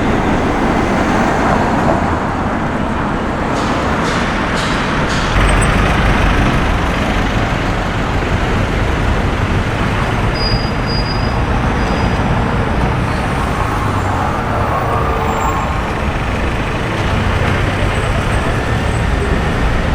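City street traffic: a steady wash of passing vehicles, with a deeper engine rumble that grows louder about five seconds in.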